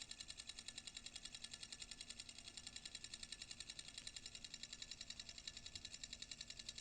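A homemade coil motor running: a wire coil, stripped of insulation on one side, spinning over a magnet. It makes a faint, fast, even ticking of about a dozen strokes a second.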